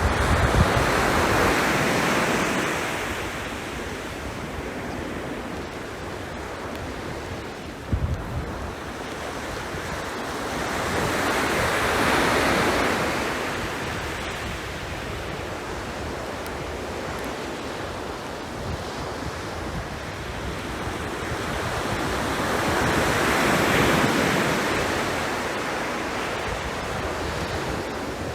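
Sea waves breaking and washing up the shore, swelling three times about eleven or twelve seconds apart, with gusts of wind buffeting the microphone.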